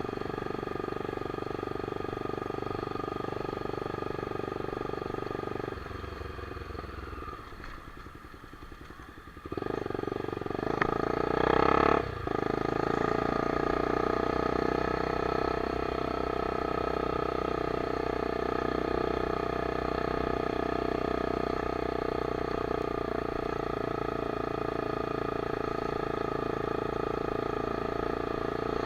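Honda CBX 250 Twister's single-cylinder engine with a straight-pipe exhaust, running steadily under way. About six seconds in it drops off quieter for a few seconds, then revs up sharply around ten to twelve seconds and settles back into a steady cruise.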